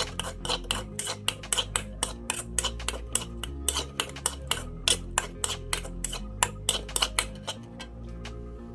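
Rapid clinking of metal utensils against a pan or dish, about four to five clinks a second, over background music; the clinking stops near the end.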